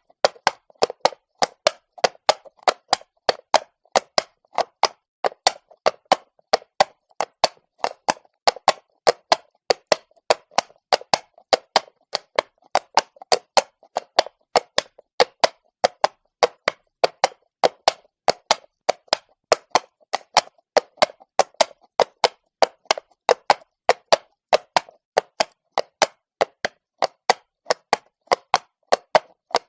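Horse's shod hooves striking stone paving at a steady walk: sharp clip-clop knocks, about four a second, in the uneven four-beat rhythm of the gait.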